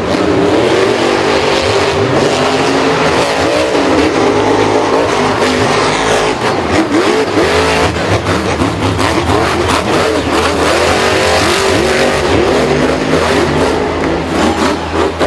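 Several racing engines revving together, their pitch repeatedly rising and falling.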